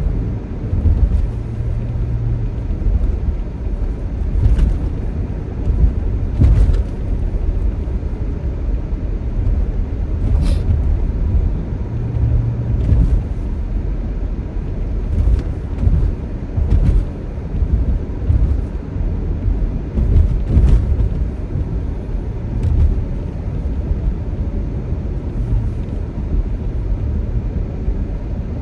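A Toyota car's interior road and engine noise while driving: a steady, heavy low rumble with scattered short knocks every few seconds. The rumbling and shaking is the fault that has come back despite a new engine, with the check engine light blinking.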